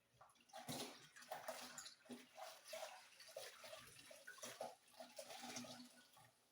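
A cleaning cloth being swished in a bucket of water, with irregular splashing and dripping.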